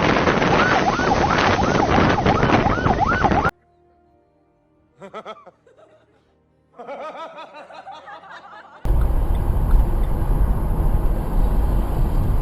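An emergency vehicle siren yelping rapidly up and down over loud road noise, cut off abruptly after about three and a half seconds. After a nearly quiet stretch with faint sounds, electronic music with a heavy bass starts loudly about nine seconds in.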